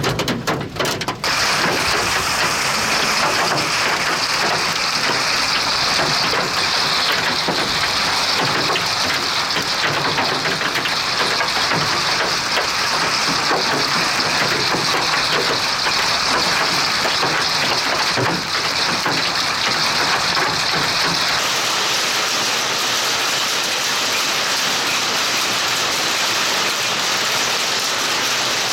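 Heavy thunderstorm rain pouring down steadily, a dense hiss of drops. In the first second there are a few sharp, separate hits. About three-quarters of the way through, the low rumble under the rain drops away.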